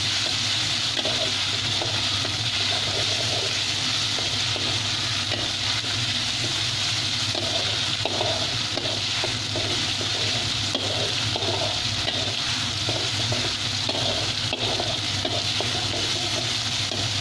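Onion, garlic and chili paste sizzling steadily in hot oil in a metal wok, with a spatula stirring and scraping through it in repeated strokes.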